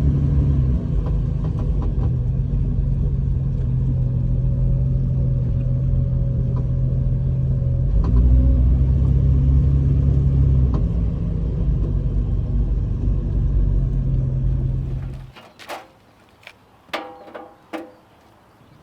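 Jeep TJ driving, a steady low engine and road rumble that cuts off suddenly about fifteen seconds in. A few sharp clicks and knocks follow.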